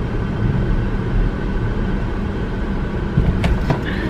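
Steady road and engine noise of a moving car, heard inside the cabin, with a few light clicks near the end.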